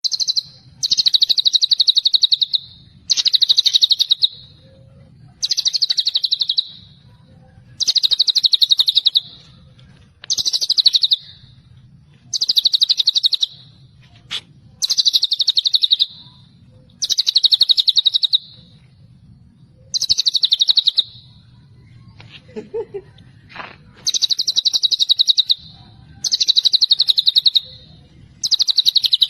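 White-rumped shama (murai batu) singing a fast, rattling trill phrase about a second and a half long, repeated about a dozen times with short pauses between. The run breaks briefly after about 22 seconds for a few short, lower notes before the trills resume.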